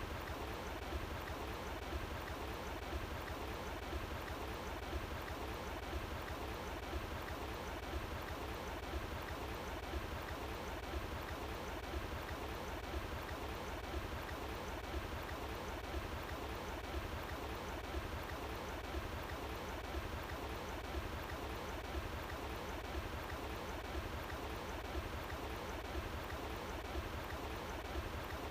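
Running water flowing steadily, an even, unbroken rush with a strong low rumble underneath.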